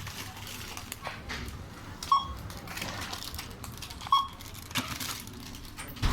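Checkout barcode scanner beeping as items are scanned: three short electronic beeps about two seconds apart, over light clicks and rustling of handling.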